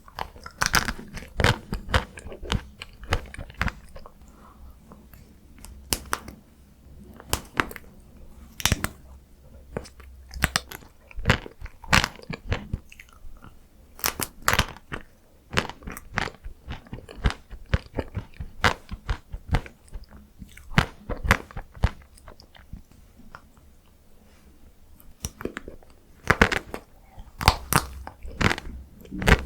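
Close-miked biting and chewing of chocolate-coated ice cream, the hard coating cracking in many sharp crunches between softer chewing. The crunches come thickest near the start and again near the end.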